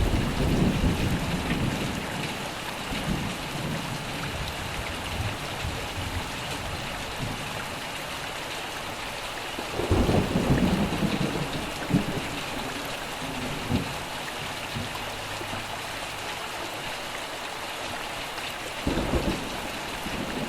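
Steady heavy rain with rolling thunder: low rumbles swell at the start, again about ten seconds in, and once more near the end.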